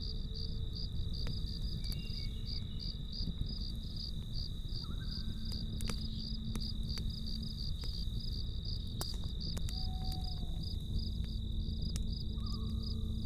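Crickets chirping in a steady, even pulse over the low, continuous crackle of a campfire, with scattered sharp pops from the burning wood.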